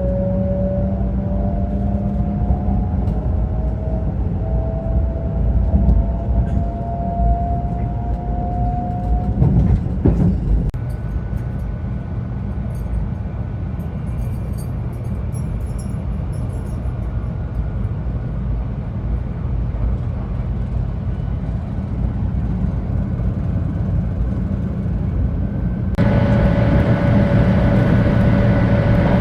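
500 series Shinkansen train running, with a low, steady rumble. For about the first ten seconds a whine climbs slowly in pitch as the train picks up speed. Near the end the sound changes abruptly to a louder rumble with a steady whine.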